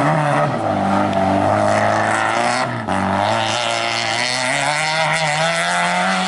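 Peugeot 205 rally car engine revving hard as the car accelerates. The pitch dips briefly about half a second in and again near three seconds in, as at a gear change or lift, then climbs steadily.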